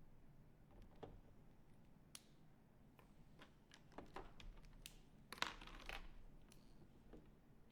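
Faint scattered clicks and taps of small painting supplies being handled on a tabletop, with a brief rustle about five and a half seconds in.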